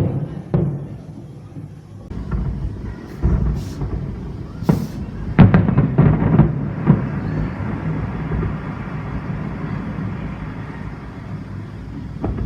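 Aerial fireworks shells bursting: a string of sharp booms with hissing streaks among them, the loudest bangs packed close together about halfway through, then a long low rumble as the echoes die away.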